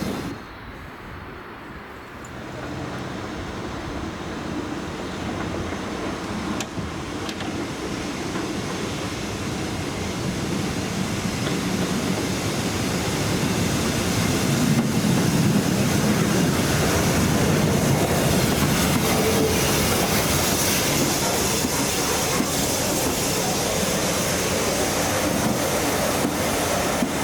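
A train coming along the line and running past, its rumble of wheels on rails growing steadily louder over the first half and staying loud to the end.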